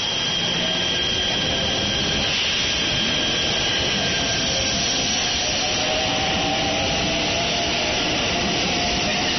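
JR East 253 series electric train pulling out and accelerating past, with a steady rush of rolling noise and a faint motor whine that rises slowly in pitch.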